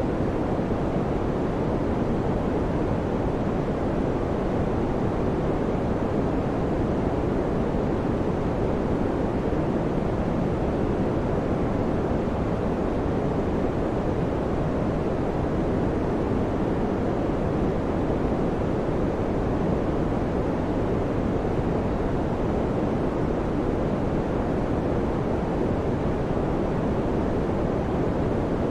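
Electric fan running: a steady, even rush of air, deep rather than hissy, with no change in speed or level.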